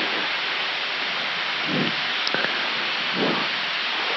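Steady rushing airflow and air-conditioning noise on the flight deck of an Airbus A319 at cruise, with a couple of faint short sounds in the middle.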